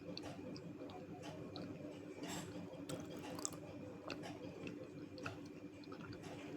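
Close-miked chewing of crunchy clay (multani mitti), small wet clicks and crunches scattered irregularly through it. A faint steady hum runs underneath.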